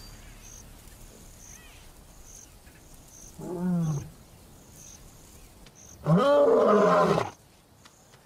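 Lion roaring: a short, quieter call about three and a half seconds in, then a loud full roar lasting about a second, starting about six seconds in.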